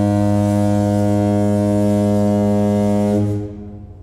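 A ship's horn sounding one long, deep, steady blast that fades away after about three seconds.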